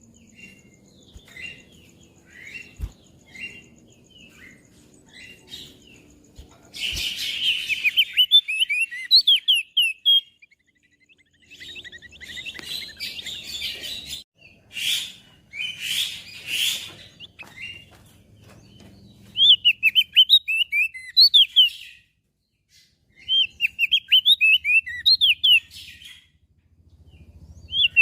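Crested white-eye (opior jambul) calling and singing: short, high chirps repeated at first, then bursts of fast, twittering song phrases a few seconds long, with harsher, rasping noisy bursts in the middle.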